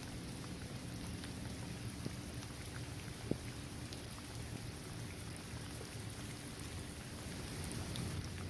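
Steady rain falling on a paved basketball court, trees and grass, with scattered individual drops ticking and one sharper drop about a third of the way in.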